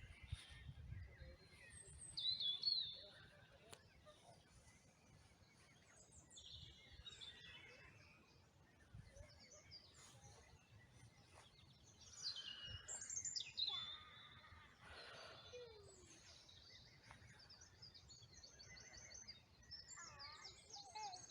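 Songbirds chirping and singing faintly, short quick calls that come and go, with a few louder bursts about two seconds in and again around twelve to fourteen seconds, over a soft outdoor background.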